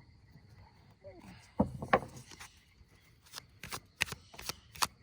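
A tarot deck being shuffled by hand: two louder taps about a second and a half in, then cards slapping together in a quick run of strokes, about three a second, from about three seconds in.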